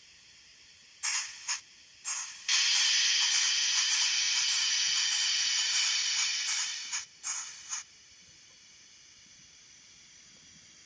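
Steam-release hiss played by the DCC sound decoder of an N-gauge Kato D51 model steam locomotive. Three short bursts come first, then a long hiss of about four seconds that fades, then three more short bursts. A faint steady hiss runs underneath.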